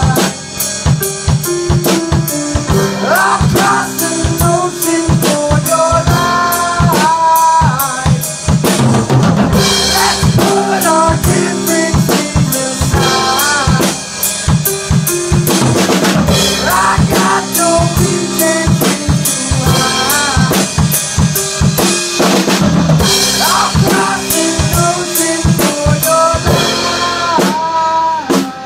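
Instrumental passage of a band recording: a drum kit drives a steady beat with kick, snare and rimshots, under pitched melody lines that bend up and down.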